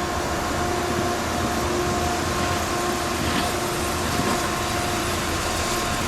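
Steady mechanical hum with a constant rushing noise.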